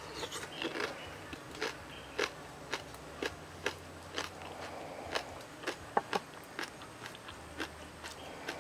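A person chewing a mouthful of steamed fish with chili sauce, close to the microphone. Short, sharp mouth clicks come about twice a second.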